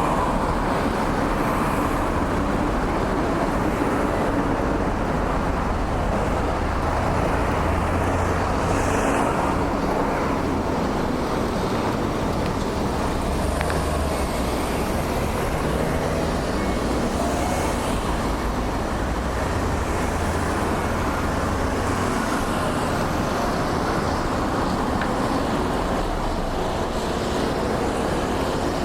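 Road traffic: cars and trucks passing with a steady rumble of engines and tyre noise, swelling and easing as vehicles go by.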